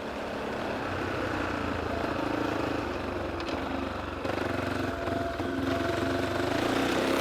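GR8 F450L enduro motorcycle engine running steadily, growing gradually louder.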